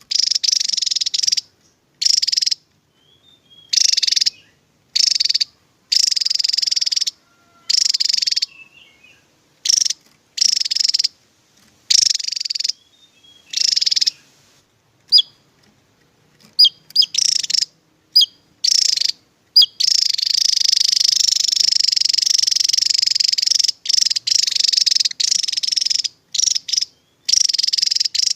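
Javan tesia singing: short bursts of high, rapid twittering song, each about a second long, separated by clean gaps, running into an almost unbroken stretch of song about two-thirds of the way through.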